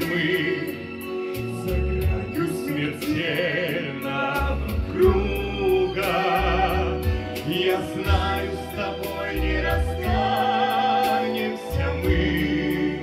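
A slow song: a voice sings a melody with vibrato over instrumental accompaniment with changing bass notes.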